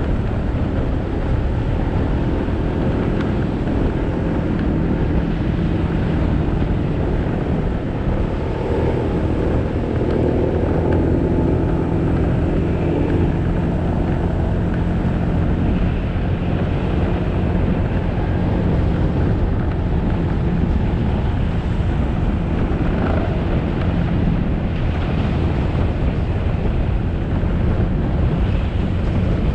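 Motorcycle engine running steadily as the bike rides along, mixed with wind and road noise.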